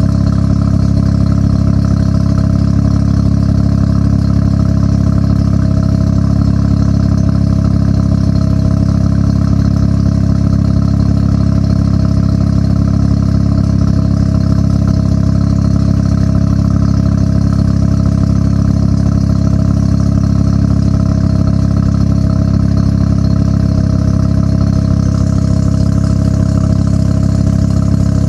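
1993 Mazda RX-7 R1's twin-rotor 13B rotary engine idling steadily through an HKS Hi-Power aftermarket exhaust.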